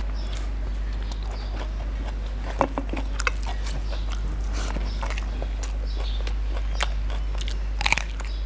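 Close-up eating sounds, a man chewing and biting food eaten by hand: scattered short crunches and mouth clicks, the loudest cluster just before the end. A steady low hum runs underneath.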